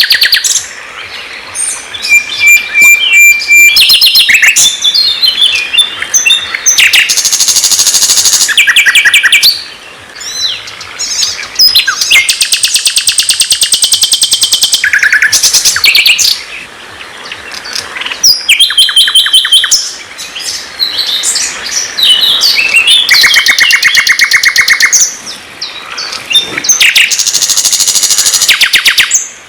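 Loud, varied songbird song used as masteran for training a white-rumped shama: rapid trills and fast repeated chirps alternating with high whistles and buzzy rattles, in phrases of one to several seconds with short breaks. It stops abruptly near the end.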